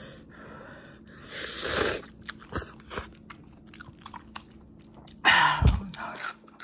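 Close-miked eating sounds: small wet chewing clicks, then a loud crunchy bite into a slice of yellow pickled radish (danmuji) about five seconds in.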